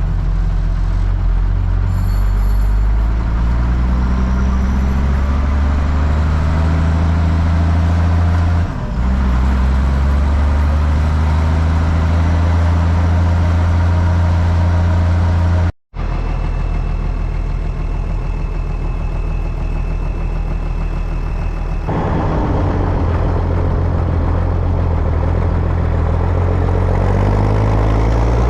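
Zetor ZTS 16145 tractor's turbocharged diesel engine running hard under load, pulling a cultivator working 35 cm deep. The engine note dips briefly about nine seconds in and then picks up again. The sound cuts out for an instant about sixteen seconds in.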